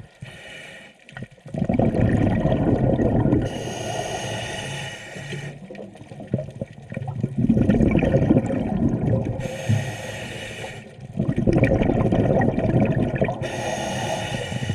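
Scuba diver breathing through a regulator underwater: three breaths, each a rumble of exhaled bubbles followed by a shorter hiss of inhaled air.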